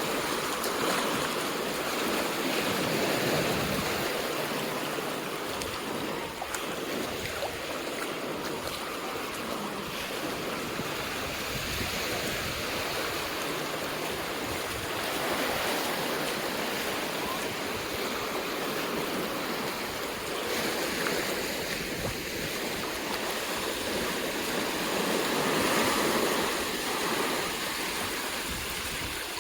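Ocean surf breaking and washing up the sand, a steady rush of water that swells and eases, louder about three seconds in and again near the end.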